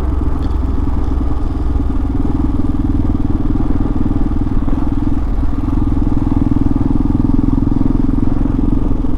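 Hawk 250 dual-sport motorcycle's single-cylinder engine running steadily while riding at low speed, with no change in pitch.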